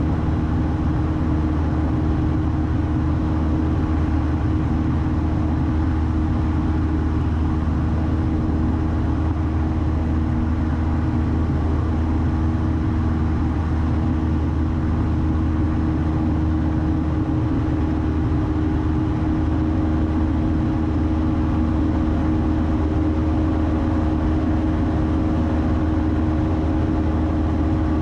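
Steady drone of a 1972 Cessna 172's engine and propeller as heard inside the cabin in flight, a constant low hum with no change in pitch.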